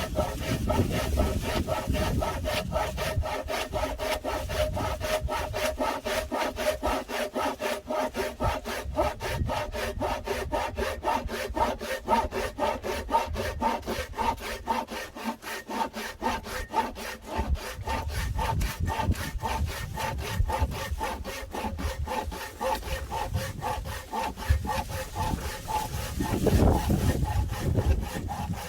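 Firewood being sawn, with quick, even saw strokes and a steady ringing tone running under them.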